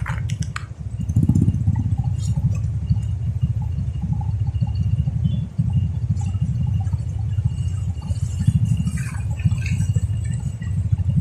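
Steady low rumble of a vehicle on the move: road and wind noise, with a faint thin high whine running along above it.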